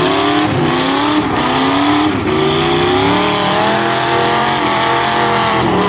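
Demolition derby cars' V8 engines revving hard, their pitch rising and falling over and over as they push against each other in the mud.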